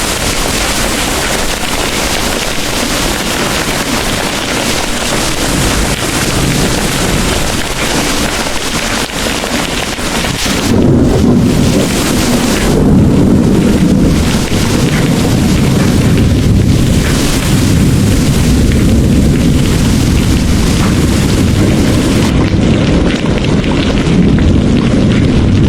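Heavy rain pouring steadily. A little before halfway, a deep, long thunder rumble sets in and keeps rolling, with the rain's hiss thinner beneath it.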